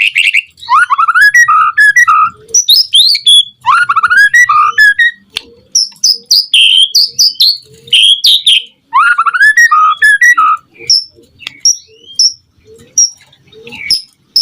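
White-rumped shama singing: runs of quick rising whistled notes, repeated in three bursts, then shorter, higher sharp notes spaced out toward the end.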